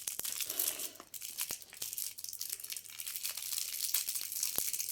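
Plastic packaging of a hair accessory crinkling and rustling as it is handled and opened: a continuous crackly rustle with many small sharp clicks.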